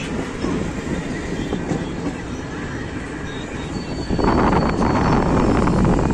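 Moving train heard from aboard: a steady rumble of wheels on the rails, turning louder into a dense, fast rattling clatter about four seconds in.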